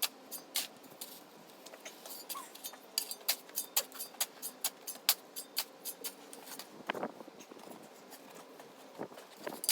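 Irregular sharp clinks and knocks of hard objects, several a second, with a few heavier knocks near the end.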